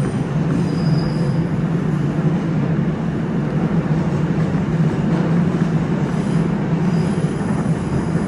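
New York City subway train running between stations, heard from inside the car: a steady loud rumble of wheels and motors on the track, with a faint high wheel squeal about a second in and again near the end.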